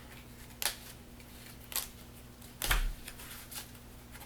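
Playing cards being dealt down into piles on a table: a few separate soft slaps about a second apart, the third with a dull thump, over a low steady hum.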